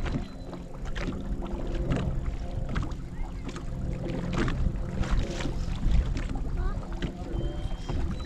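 Sounds aboard a small fishing boat: scattered knocks and taps over a steady low hum.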